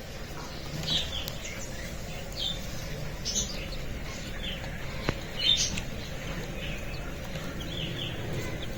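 Chicks peeping: short, high chirps about once a second over a steady low background hum.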